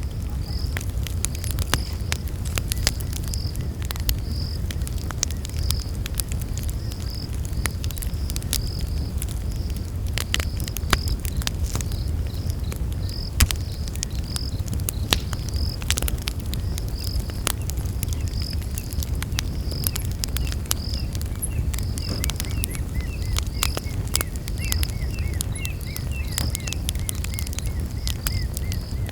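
Campfire crackling and popping over a low steady rumble of the flames, with an insect chirping in regular pulses throughout. About three-quarters of the way in, a fainter, faster chirping joins in.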